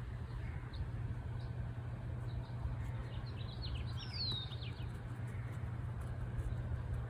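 Songbirds chirping over a steady low rumble. A quick cluster of chirps comes about three to five seconds in, with one clear falling whistled note.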